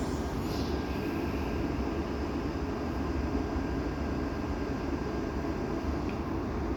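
Steady hum and low rumble of a passenger train standing at the platform, its locomotive and carriage equipment running, with a faint steady whine above.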